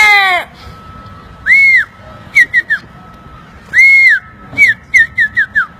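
A man imitating animal calls with his mouth: the tail of a bleat-like call in the first half-second, then bird-like whistling, a clear arching note followed by quick falling chirps, twice over.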